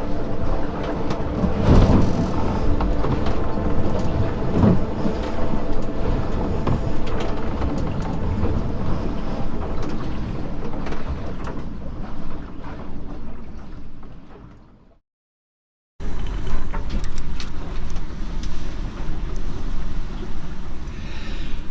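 Sailing yacht pounding into heavy seas: rushing water and wind with heavy thuds as the hull slams into waves, over a steady drone. The sound fades out, is silent for about a second, then comes back as wind and rushing water with small knocks.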